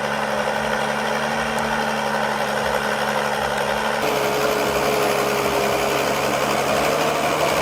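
A heavy forestry machine's engine running steadily, with a higher steady whine joining in about four seconds in.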